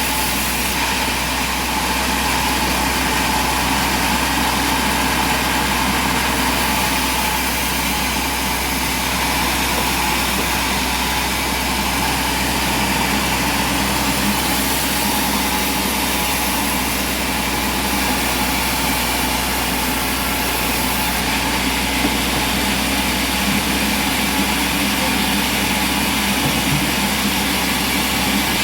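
An engine or motor running steadily at an even speed, with no load changes or breaks.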